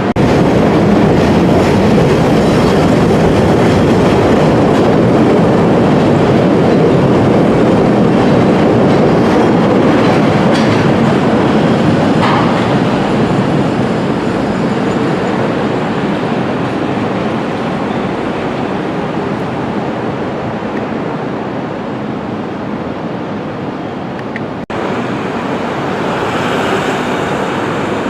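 CTA rapid-transit train running on the track, loud and steady, slowly growing quieter from about halfway through, with a brief sharp drop near the end.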